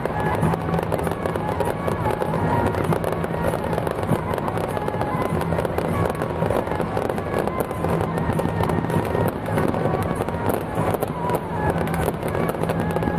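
Fireworks crackling continuously in a dense, rapid string of small bangs, with music playing underneath.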